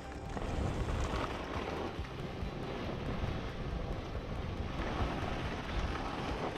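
Wind rushing over the microphone during a downhill ski run: a steady rumble with swelling noise, and no distinct events.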